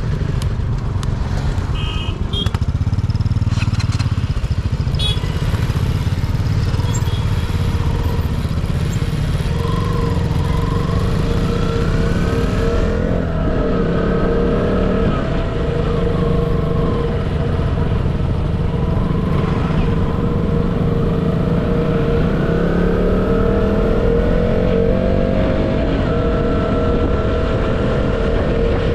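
Motorcycle engine running on the move, its pitch rising and falling with speed, over a heavy low rumble of wind on the microphone. A few short high tones sound in the first couple of seconds.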